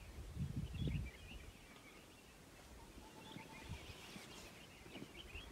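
Small birds chirping faintly over and over, with a brief low rumble in the first second.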